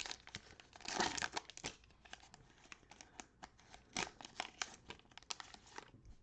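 Cellophane wrapper of a cello pack of basketball cards crinkling and tearing as it is ripped open: a run of small crackles, loudest about a second in and again about four seconds in.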